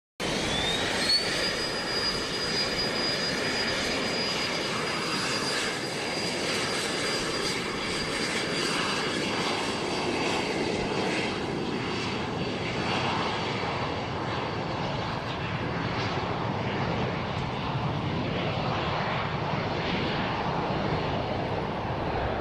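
A private plane's engines running at take-off power, a steady loud rush with a high whine that climbs in pitch in the first second or so and then holds, sinking slightly as the plane goes.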